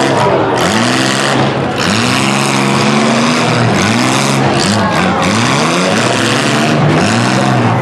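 Demolition derby cars' engines revving hard over and over, the pitch climbing and dropping again about every second as the drivers push and back up.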